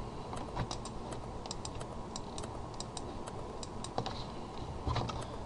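Computer keyboard being typed on: scattered, irregular light key clicks.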